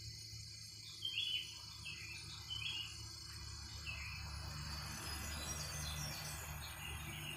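Outdoor woodland sounds: a bird giving short, falling chirps, a cluster in the first few seconds and more near the end, over a steady drone of insects.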